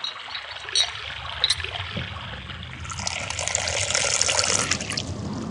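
Running water trickling, with a few sharp drip-like clicks early on; it swells louder for a couple of seconds in the middle.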